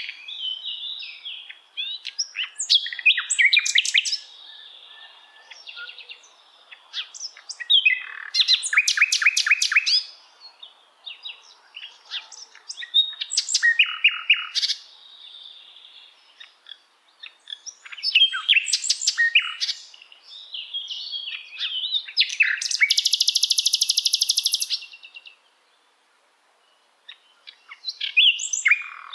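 Sikatan londo singing in a series of short phrases of rapid repeated notes and chattering trills, separated by brief pauses. Near the end comes one long, fast, buzzing trill, then a short silence before the song resumes.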